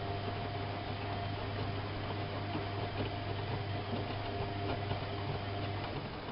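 Whirlpool AWO 5346 front-loading washing machine running, a steady low hum with a thin whine over it and faint ticks. Near the end the whine stops and the sound begins to die away as the machine winds down.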